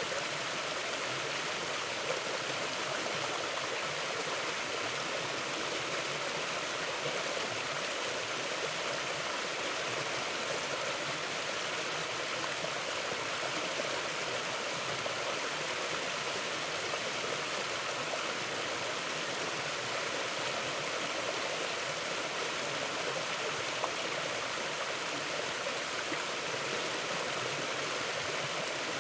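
Steady rushing and gurgling of a mountain stream flowing over rocks.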